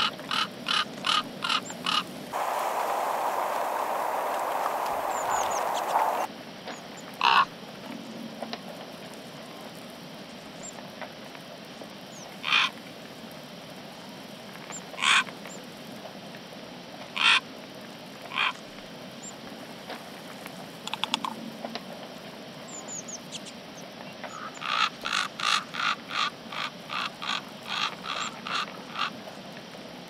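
Birds giving short, harsh calls: a quick run of about five near the start, single calls scattered through the middle, and a longer even run of about a dozen near the end. A few seconds of rushing noise come just after the start.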